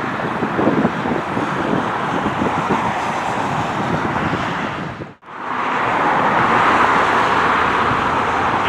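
Steady roar of a wide-body jet airliner's engines, mixed with wind on the microphone. The sound drops out abruptly about five seconds in, then returns with the roar sitting higher in pitch.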